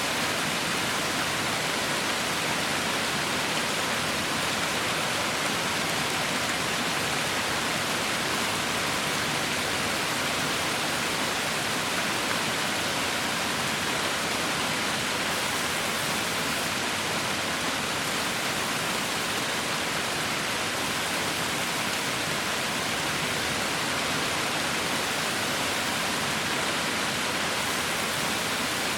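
Heavy rain falling steadily, an even, unbroken hiss with no single drops standing out.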